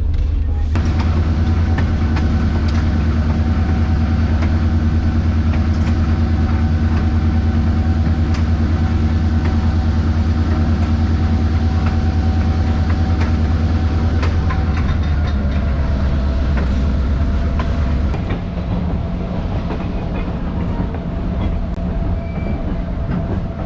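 GP38-2 diesel locomotive's engine running steadily as the train moves, a loud low hum with a steady tone above it. The engine note drops about fifteen seconds in and again about eighteen seconds in, as the throttle comes back.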